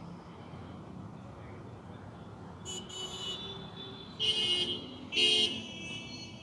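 Vehicle horn honking: two short, loud toots about a second apart, after a fainter pitched sound, over steady background noise.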